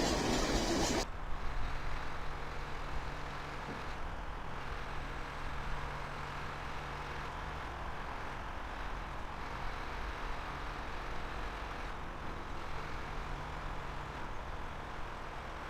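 Loud train noise cuts off abruptly about a second in, leaving a steady low rumble with a faint low hum that comes and goes, like a distant engine.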